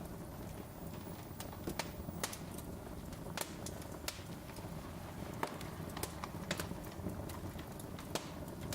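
Wood fire crackling in a fireplace: irregular sharp pops and crackles over a low steady rumble of the flames.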